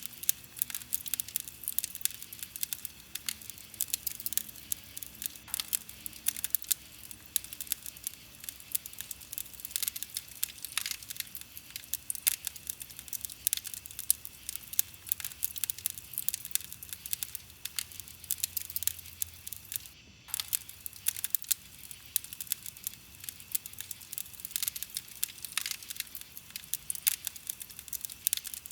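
Wood fire crackling, a dense, unbroken stream of sharp snaps and pops, with a split-second dropout about twenty seconds in.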